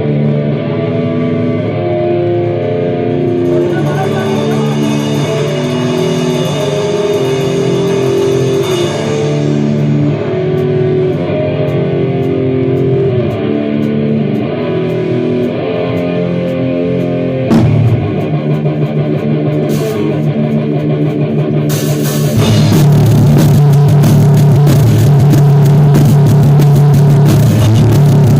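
Rock band rehearsing live: guitar playing over a drum kit, with a single hit a little past halfway, then the whole band gets louder with crashing cymbals for roughly the last quarter.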